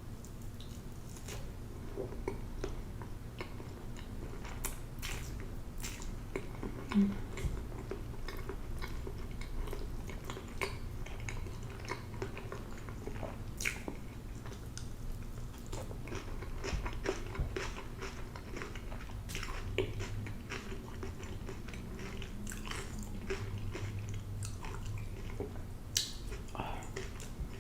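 A person biting and chewing food close to the microphone, with many small sharp mouth clicks throughout and a couple of louder ones, about seven seconds in and near the end.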